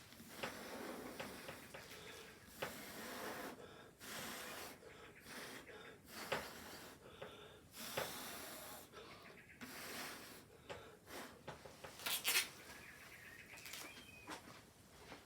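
Irregular short bursts of blowing air, each a second or two long, with a few sharp clicks in between.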